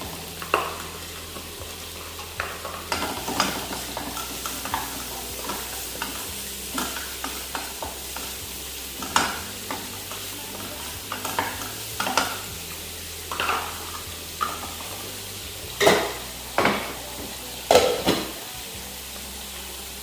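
Onion frying and sizzling in hot fat in a pan, stirred with a spoon that scrapes and knocks against the pan at irregular moments, a few louder knocks near the end.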